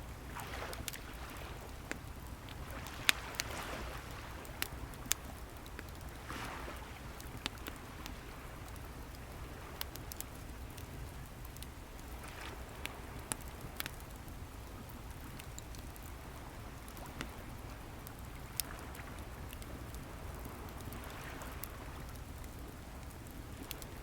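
Wood fire crackling with sharp, irregular pops, over waves washing onto the shore in slow swells every few seconds.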